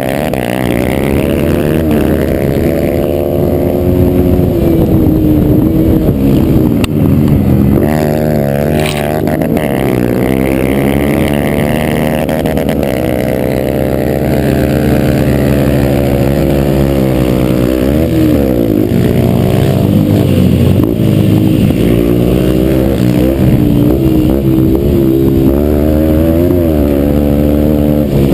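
Yamaha TT-R125 dirt bike's single-cylinder four-stroke engine revving hard at racing pace, its pitch climbing and dropping again and again as the throttle is opened and closed through the gears.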